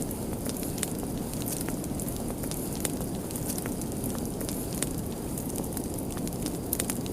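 Fire crackling: a steady low rush of burning with frequent sharp pops and crackles at irregular intervals.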